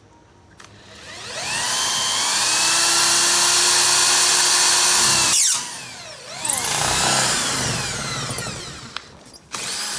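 An electric motor runs in two long, loud bursts, the first about four seconds and the second about three, with a shrill squeal whose pitch glides up and down.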